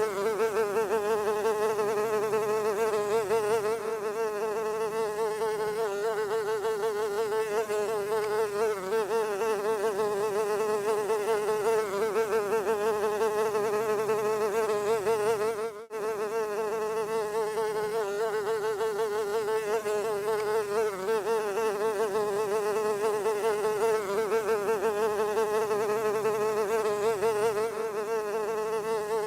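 Fly buzzing continuously, its wingbeat hum wavering rapidly in pitch and level, with a brief cut-out a little past halfway.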